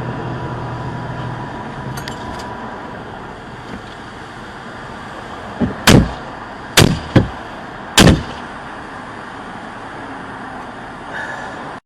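Steady vehicle and road noise, broken by a quick run of about five loud, sharp bangs between roughly six and eight seconds in.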